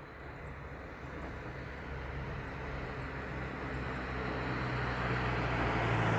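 A motor vehicle approaching: a low engine hum and road noise grow steadily louder.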